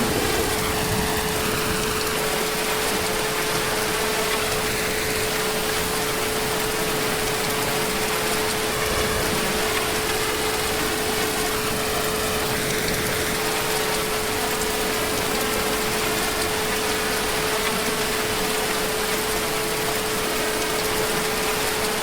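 Heavy rain falling in a steady, even hiss, with a faint steady hum running underneath.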